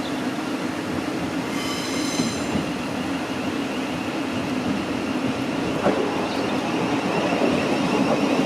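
Electric passenger train running through the station with a steady rumble. A brief high-pitched squeal comes about two seconds in, then a steady high whine, and the train grows slightly louder toward the end.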